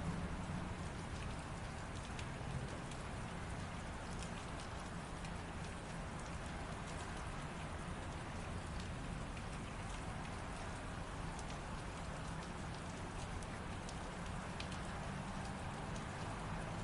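Light rain falling steadily, with scattered drops ticking sharply over the hiss and a low steady rumble beneath.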